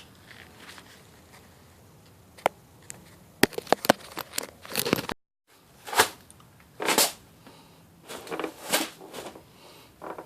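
Handling noise from a camera being moved and mounted: a run of sharp clicks and knocks, then short rustling and scraping bursts. The sound cuts out completely for a moment about five seconds in.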